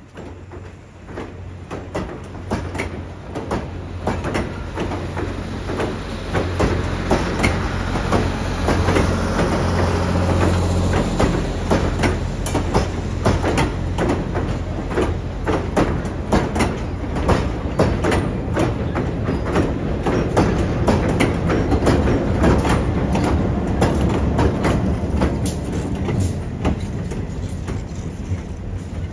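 A train passing close by. It grows louder over the first five seconds or so, then runs loud with a rapid clatter of wheels over the rails.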